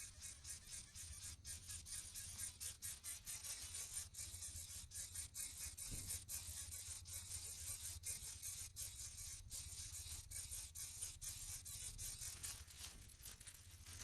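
Nestling birds giving raspy, hissing begging calls in quick repeated bursts, the sound of hungry chicks begging for food at the nest.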